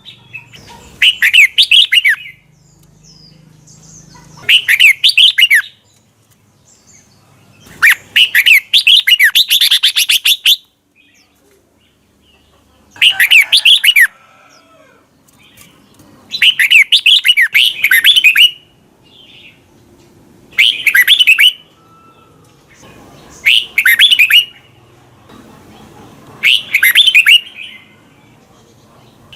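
Red-whiskered bulbul singing: eight short, rapid warbled phrases with pauses of a second or two between them. The longest phrase falls about eight seconds in.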